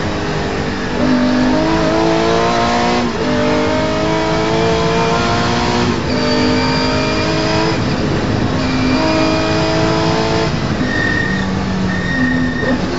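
Porsche 911's engine, heard from inside the cabin, accelerating hard and shifting up through the gears: the pitch climbs, drops sharply at each of four shifts, then holds steadier near the end.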